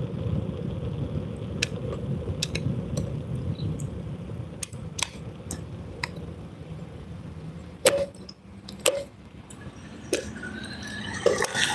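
Steady low rumble with scattered sharp clicks and knocks; the loudest knock comes about eight seconds in, with another about a second later.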